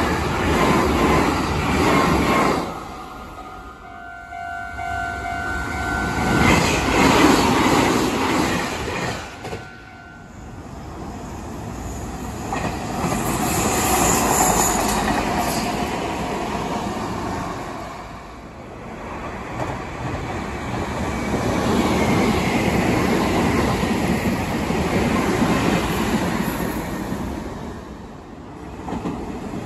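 Meitetsu electric trains running past on the rails, the running noise swelling and fading several times. A brief steady whine sounds about three to five seconds in.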